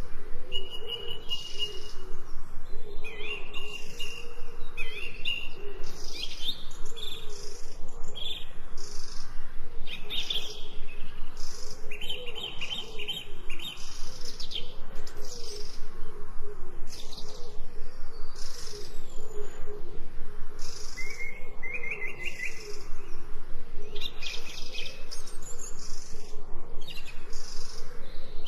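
Several birds chirping and calling again and again, short high calls throughout, over a steady hiss of rain.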